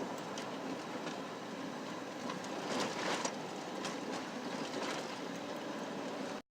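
Steady rushing road noise of a moving vehicle, with a few faint clicks, cutting off suddenly near the end.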